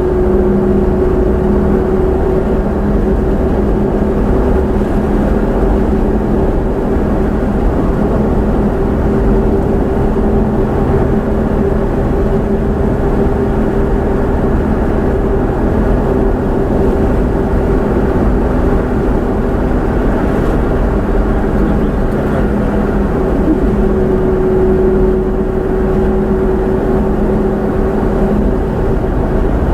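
Vehicle engine and road noise: a steady, unchanging drone with a constant low hum.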